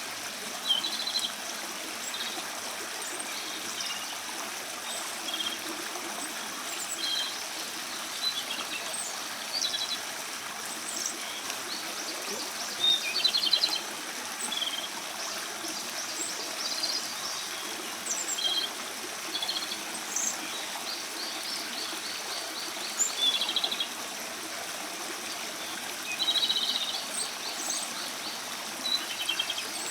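Japanese robin singing short, high phrases every few seconds, several ending in a rapid rattling trill, over the steady rush of running water.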